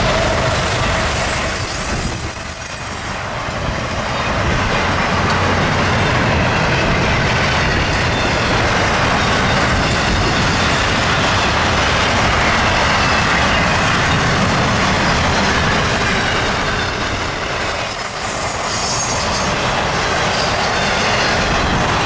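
CSX intermodal freight train's cars, trailers and stacked containers, rolling past at speed: a loud, steady rumble and rattle of steel wheels on the rails. A thin, high wheel squeal comes in about a second in and fades a few seconds later.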